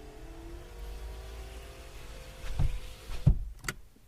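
Car engine running at low speed while the car is moved, then cutting out about three seconds in, with a couple of thumps and a click.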